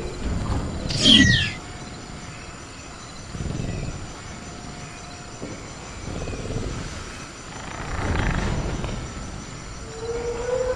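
Sound-effect velociraptor ambience: a sharp, downward-sweeping raptor shriek about a second in, then low rumbling growls every couple of seconds, over a steady high chirring of crickets.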